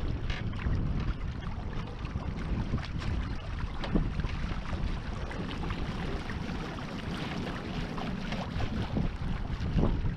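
Wind buffeting the microphone aboard a small sailboat, a steady low rumble with irregular splashes of water against the hull.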